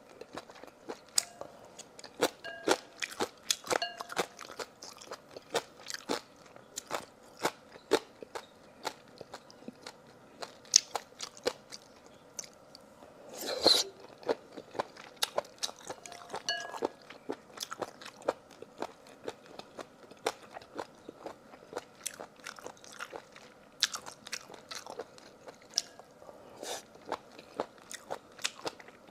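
A person biting and chewing crunchy food close to the microphone: many sharp, irregular crunches, with one louder, longer crunch about halfway through.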